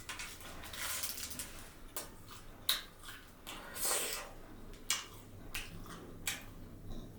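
Close-miked eating: wet chewing and squishing of food, with irregular sharp crunchy clicks, the loudest a little under three seconds in and again at about four seconds.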